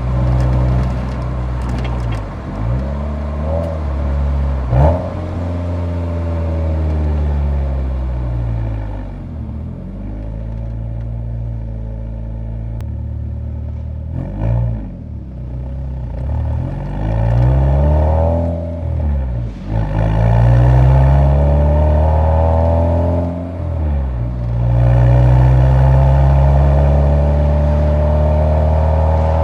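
Nissan 180SX exhaust note while driving, the revs rising and falling again and again as the car accelerates and lifts off, with a single sharp crack about five seconds in.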